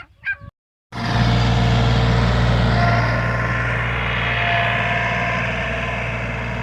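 After an abrupt cut about a second in, a heavy engine runs steadily with a strong low hum. Brief clucks are heard before the cut.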